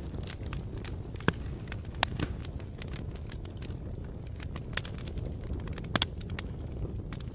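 Wood fire crackling: irregular sharp pops and snaps over a steady low rumble, with louder pops about a second in, at two seconds and near six seconds.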